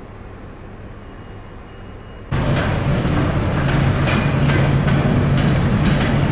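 CFR electric locomotive hauling passenger coaches slowly past at close range: a steady low hum with regular clicking as the wheels cross rail joints. It starts abruptly about two seconds in, after a quieter low background hum.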